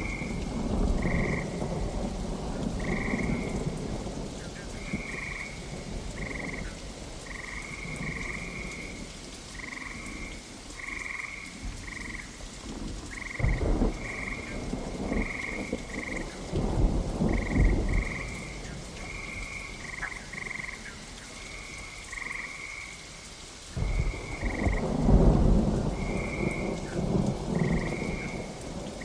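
Steady rain with rolling thunder: a rumble near the start, two more around the middle, and a longer roll about four-fifths of the way through. Frogs croak throughout in short, repeated calls, about one or two a second.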